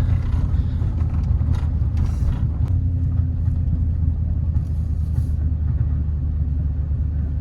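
2000 Chevy Silverado pickup driving, its engine and exhaust a steady low drone heard from inside the cab, with a few short knocks and rattles about one and a half and two and a half seconds in. The truck's worn 4L60E automatic transmission is slipping, and the sound is taken as a sign that it is going bad.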